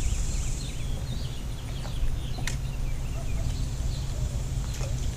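Birds chirping and calling in a busy run of short, squeaky notes, over a steady low rumble, with one sharp click about halfway through.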